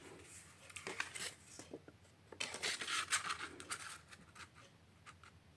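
Paper and card stock being handled at a craft table: crisp rustling and scratchy strokes, busiest about two and a half to three and a half seconds in.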